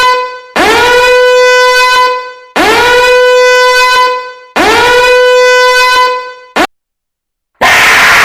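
Loud horn blasts repeated about every two seconds, each held at one steady pitch after a quick upward swoop at its start. Near the end a very short blip is followed by a harsh, noisy burst from a different sound effect.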